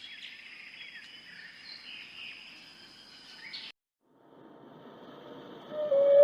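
Small birds chirping over a steady high, insect-like tone; it cuts off abruptly after about three and a half seconds. After a short gap, noise builds and a loud, steady animal call starts near the end.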